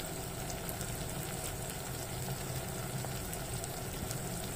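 Onions and tomatoes frying in oil in a pot: a steady low sizzle with faint scattered crackles, over a low steady hum.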